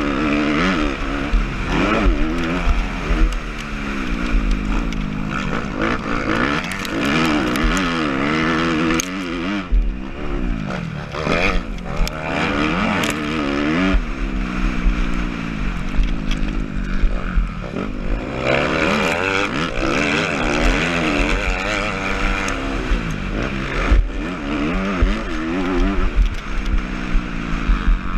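Motocross bike engine revving hard, its pitch climbing and dropping over and over as the throttle opens and closes through the gears.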